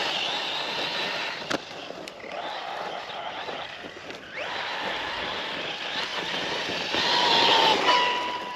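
Losi electric RC truck driving off-road: its brushless motor whines and rises in pitch as it accelerates, over the rushing of tyres and chassis on rough ground. A sharp knock comes about a second and a half in, and a steadier high whine holds near the end.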